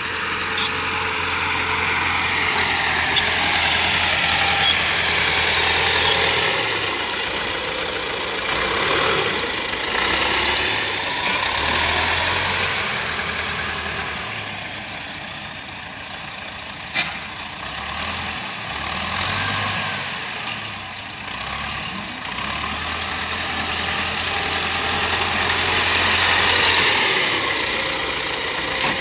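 T-40 tractor's diesel engine running under varying load while skidding logs, its note rising and falling. A single sharp clack a little past the middle.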